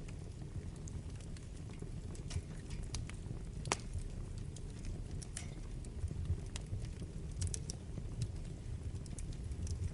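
Wood fire burning in a fireplace, a steady low rumble of the flames under irregular sharp crackles and pops from the burning logs, the loudest pop about a third of the way in and a quick cluster of crackles past the middle.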